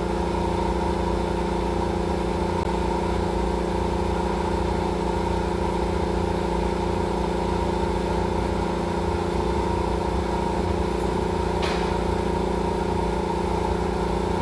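Steady machine hum, like a motor running at an even speed, with one short tick about twelve seconds in.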